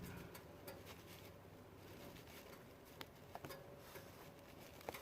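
Near silence with a few faint, scattered clicks and taps: hands pressing two-part epoxy putty into a leak on the exhaust.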